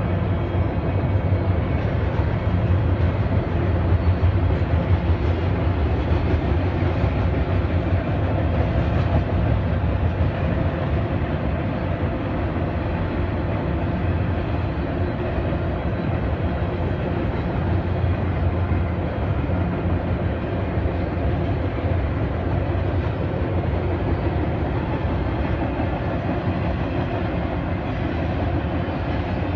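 Freight train rolling past: a steady, continuous rumble of wheels on the rails.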